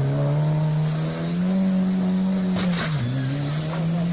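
Car engine running hard under acceleration, its pitch climbing slowly, dipping sharply and climbing again about three seconds in. A short rushing noise comes just before the dip.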